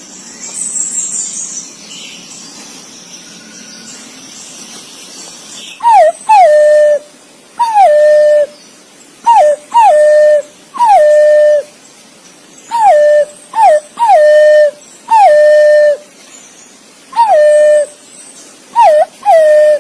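Green pigeon (punai) calling: a series of clear whistled phrases, each a short rising-and-falling note followed by a longer whistle that slides down and holds steady, beginning about six seconds in after a few seconds of hiss.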